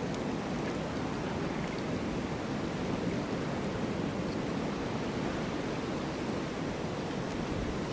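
Wind of a snowstorm blowing steadily, an even rushing noise with no gusts or breaks.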